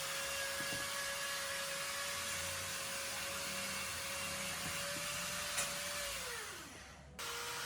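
A high-speed electric motor whirring steadily with a hissing rush of air, then winding down in pitch and fading about six and a half seconds in. A similar steady whir starts abruptly just after.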